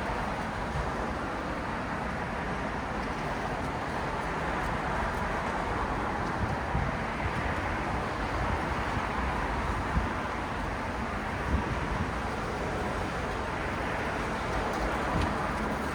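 City road traffic at night: a steady wash of tyre and engine noise from passing cars, swelling gently as vehicles go by, with a low rumble underneath.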